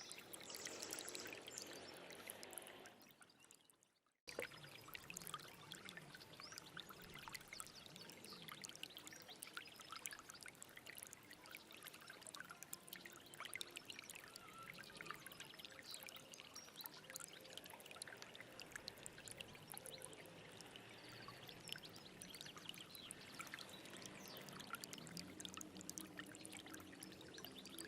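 Small stream babbling and trickling steadily over stones, full of little splashes. About three seconds in the water fades out to silence, then cuts back in abruptly a second later, like a seam where the recording is looped.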